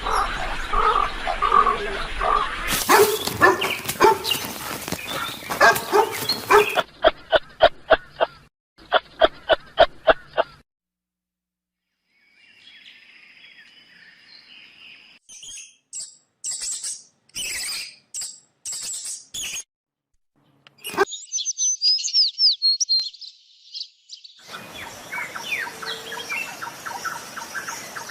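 A string of different animal calls, cut abruptly from one to the next: dense, pitched calls at first, then a run of evenly spaced pulses, and short high chirps and twittering of birds in the second half.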